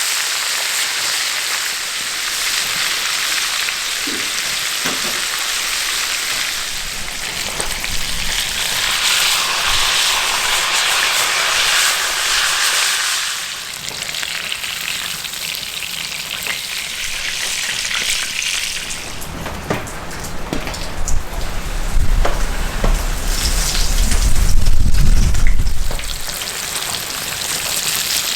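Food sizzling and frying in hot oil, a steady hiss that swells and then eases off partway through. In the second half a low rumble with scattered knocks joins it for several seconds and is the loudest part.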